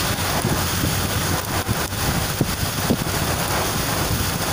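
Steady rush of heavy rain and wind with the low rumble of a moving vehicle, and gusts of wind buffeting the microphone.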